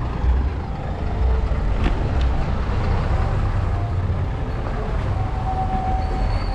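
Busy street ambience dominated by the steady low rumble of road traffic, with a sharp click about two seconds in and a thin held tone near the end.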